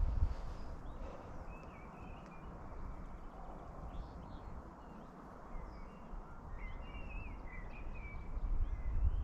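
Wild birds chirping and singing over a steady outdoor hiss, with a run of short warbling calls about seven seconds in. Low footsteps thud near the start and again toward the end.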